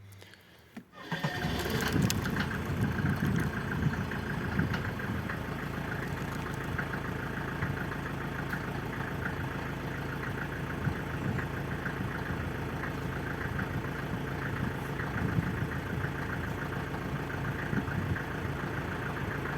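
Mercedes-Benz W124 200D's four-cylinder diesel engine cold-starting at -5 °C: it fires about a second in, runs louder and uneven for the first few seconds, then settles into a steady idle.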